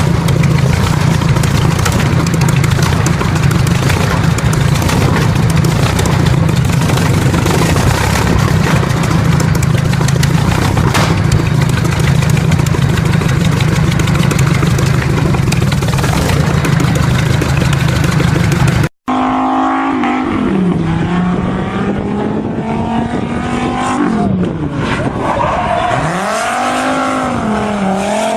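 A loud vehicle engine running steadily for about nineteen seconds. After a sudden cut, a different engine revs up and down several times, its pitch rising and falling.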